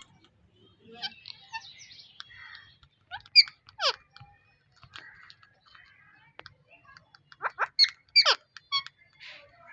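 Parrots calling: sharp whistled squawks that fall steeply in pitch, in two clusters about three seconds in and again near the end, with fainter chirps and clicks between them.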